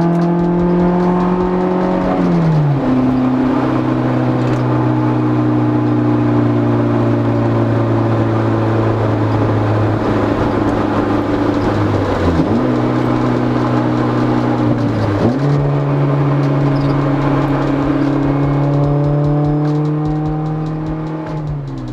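Honda S2000's F20C four-cylinder engine through a single-exit aftermarket exhaust, heard from inside the cabin while cruising under 5,000 rpm. A lot of exhaust noise gets into the cabin. The engine note drops sharply about two and a half seconds in, dips briefly around twelve seconds, steps up higher around fifteen seconds and drops again near the end.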